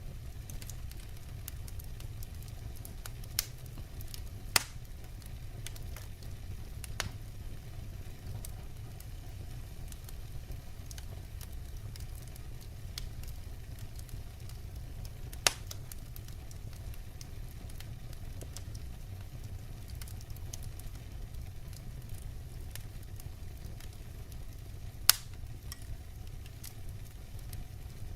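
Wood fire burning: a steady low rumble with a handful of sharp crackling pops, the loudest about 25 seconds in.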